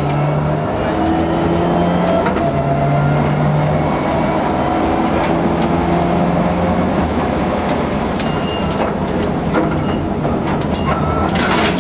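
Subaru Impreza rally car's flat-four engine heard from inside the cabin at speed, pulling up in pitch and dropping back again and again as it accelerates and shifts gears. Clicks and a rush of noise come in near the end.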